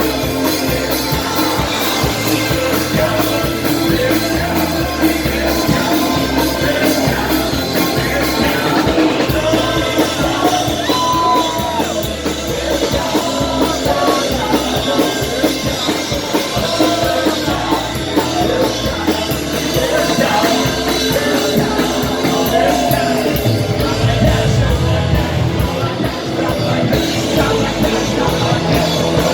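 Live rock band playing loud, with a pulsing bass and drum beat and shouted singing over it.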